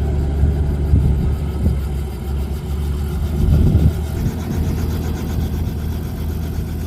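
Helicopter engine and rotor running, a steady low drone.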